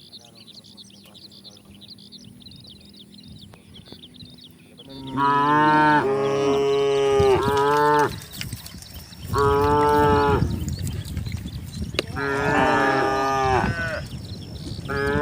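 Cattle mooing: four long, loud moos, each one and a half to three seconds long, start about five seconds in. The last one is still going at the end. Before them there is only faint high chirping.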